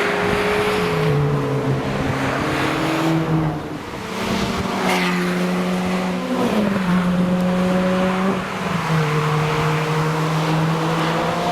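Cars driving past on a race track, engines held at steady revs with several drops and rises in pitch, one car sweeping past about five seconds in.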